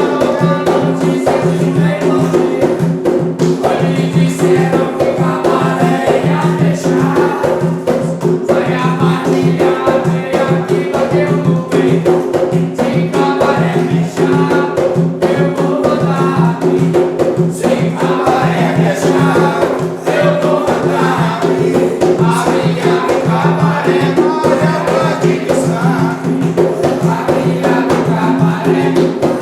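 A group singing a ritual chant (a ponto) over steady, dense percussion with rattles.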